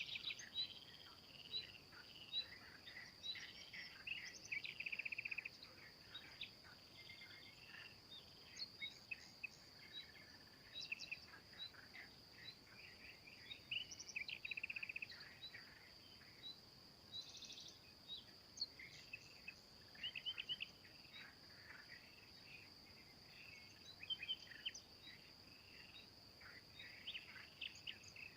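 Small songbirds chirping and singing in short phrases and trills over a steady, high insect drone, like crickets.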